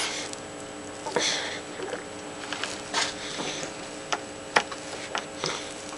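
Soft, scattered squishing and smacking sounds of chocolate frosted cake being handled and eaten by hand, over a faint steady hum.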